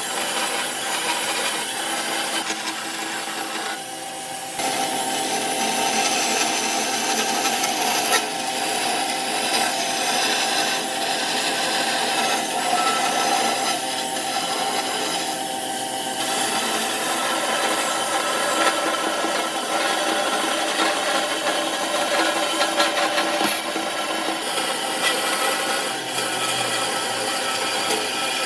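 A power tool working wood: a steady machine sound with continuous scraping and rasping against the wood, easing briefly about four seconds in and again around sixteen seconds.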